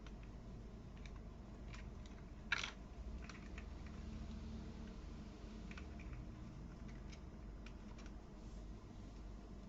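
Toy building pieces being handled and snapped together: faint, scattered small clicks, with one sharper click about two and a half seconds in.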